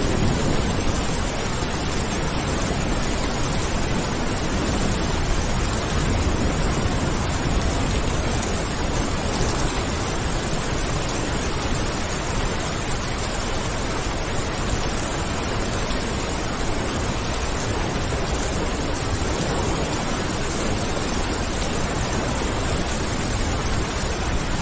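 Steady heavy rain, a dense, even hiss without single drops standing out.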